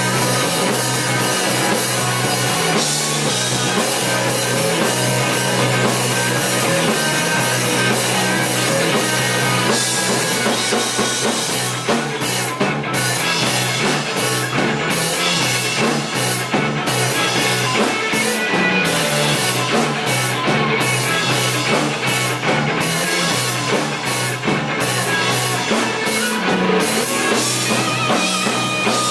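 Live rock band playing an instrumental passage: electric guitar, bass and a drum kit, with cymbals ringing steadily in the first half and a choppier drum rhythm from about twelve seconds in.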